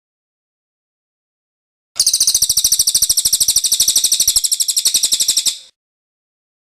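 Cililin bird singing its rolling song: one rapid, high-pitched trill of evenly repeated notes, roughly a dozen a second, starting about two seconds in and lasting about three and a half seconds before stopping abruptly.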